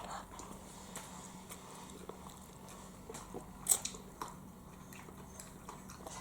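A small child chewing a mouthful of shrimp fried rice, with scattered light clicks, the sharpest about three and a half seconds in.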